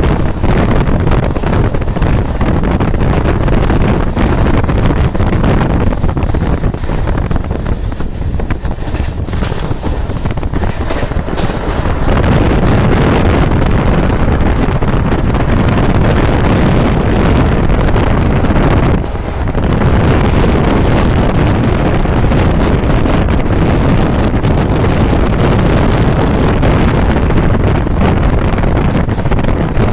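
Superfast train running at speed, with heavy wind rushing over the microphone as a loud, steady roar; it briefly drops about two-thirds of the way through.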